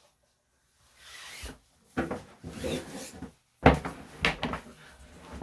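Irregular rubbing and scraping with several knocks, the loudest a sharp thump a bit over halfway: handling noise of a dog and a mat on a grooming table. Clippers are not running.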